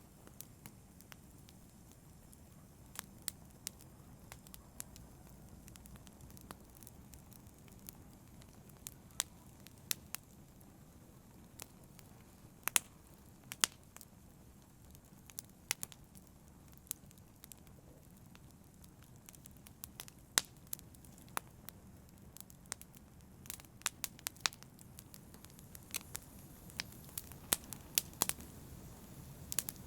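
Campfire burning: burning wood crackling with sharp, irregular pops over a low steady rush. The pops come more often near the end.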